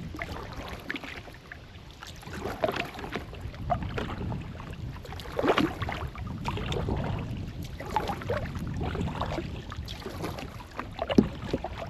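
Kayak on the water: water splashing and lapping at the hull, with irregular knocks and clatter against the boat and some wind on the microphone.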